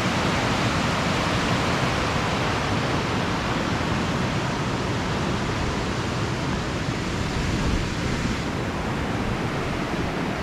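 A flash flood's torrent of fast floodwater rushing steadily and loudly, a dense unbroken wash of water noise.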